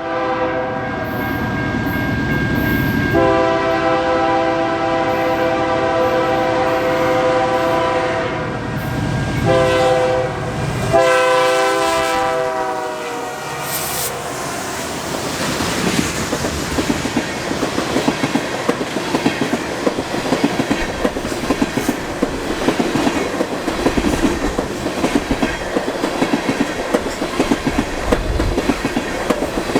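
BNSF freight locomotive horn sounding in several long blasts as the empty oil train approaches at track speed. Then comes a steady, rhythmic clickety-clack of the empty tank cars' wheels passing over rail joints.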